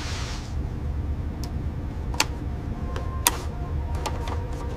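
Factory-floor machinery ambience: a steady low hum with a few sharp metallic clicks scattered through it.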